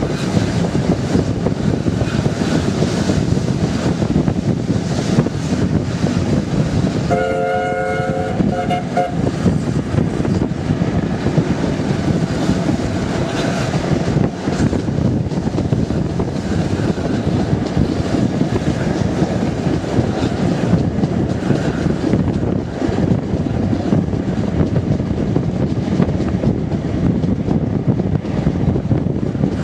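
Rumble and rattle of a railway carriage running along the track behind a steam locomotive. About a quarter of the way in, the locomotive's whistle sounds for about two seconds.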